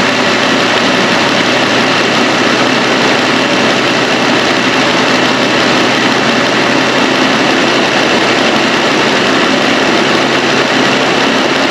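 Jeep Wrangler's freshly swapped 3.6-litre V6 idling steadily while it warms up to open the thermostat and purge air from its newly filled cooling system.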